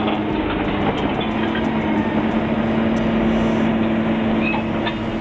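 A heavy vehicle's engine running steadily, a constant drone with a low steady hum and a few scattered clicks and rattles.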